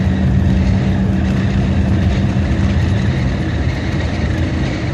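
Engine and road noise of a VAZ classic (Zhiguli) car driving on snow, heard from inside the cabin: a steady low rumble with an engine hum that drops away about two and a half seconds in.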